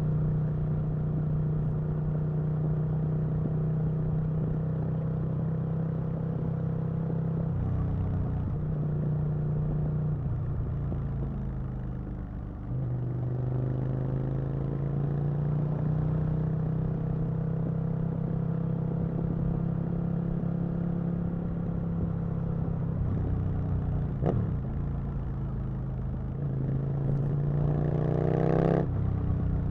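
Aprilia RSV Mille's V-twin engine under way, holding fairly steady revs with a change in engine speed about a third of the way in and a drop in pitch a few seconds later, then revving up quickly near the end.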